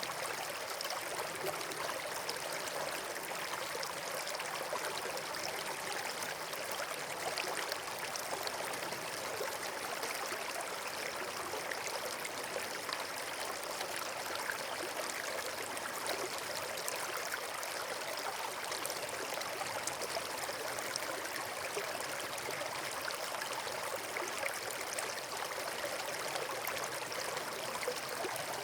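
Steady, even rush of flowing water, like a stream or small waterfall.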